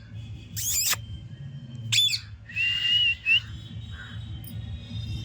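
Pet parrot calling: two short shrill squawks in the first two seconds, then a clear whistled note lasting under a second, held nearly level with a flick up at its end.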